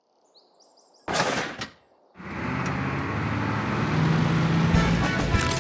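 Cartoon sound effects of a bus setting off: a few faint bird chirps, a short hiss about a second in, then a steady engine sound that starts about two seconds in and keeps running, slowly getting louder.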